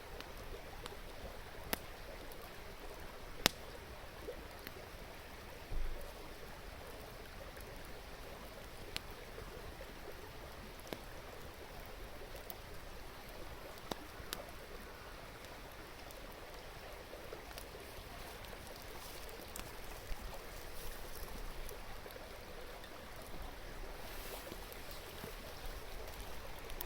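Steady rush of a river stream, with a wood fire crackling in a few scattered sharp pops.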